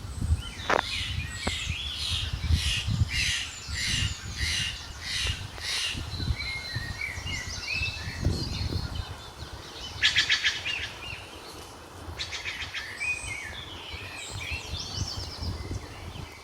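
Several birds calling and chirping in a park. A run of repeated high calls comes about two a second for the first six seconds, then mixed chirps, with short rapid trills at about ten and twelve seconds. A low rumble runs underneath.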